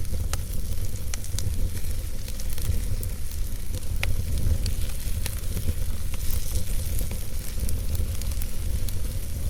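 Wood fire burning in a fireplace: a steady low rumble and hiss of the flames with frequent scattered crackles and pops.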